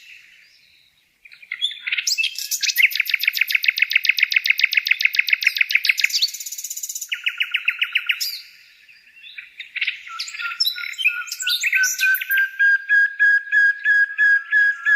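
A songbird singing in long, fast trills of rapidly repeated high notes, broken by short pauses, with varied chattering phrases and a run of repeated whistled notes near the end.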